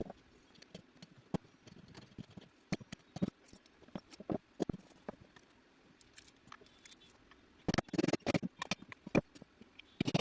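Scattered sharp clicks and knocks of ceiling fan parts and hand tools being handled during repair, with a denser flurry of knocks about eight seconds in.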